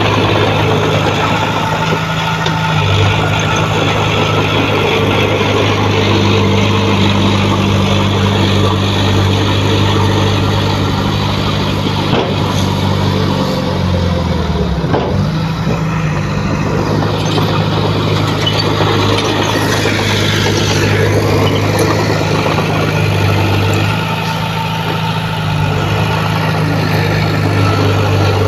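Heavy diesel engine of earthmoving equipment running steadily, its pitch dipping briefly about halfway through and then coming back up.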